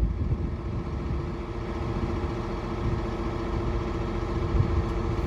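John Deere 4955 tractor's diesel engine running steadily, a constant low rumble with an even hum.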